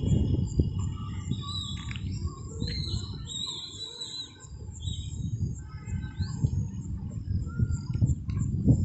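Several birds chirping and whistling in short calls, over a steady low rumbling noise.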